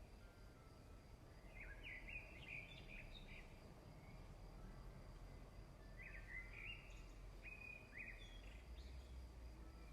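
Faint songbird chirps in two short bursts, the first about one and a half seconds in and the second about six seconds in, over a low steady background hum.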